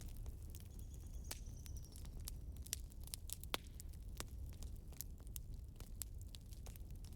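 Wood fire crackling: irregular sharp pops and snaps over a low steady rumble, with a faint high whistle for about a second near the start.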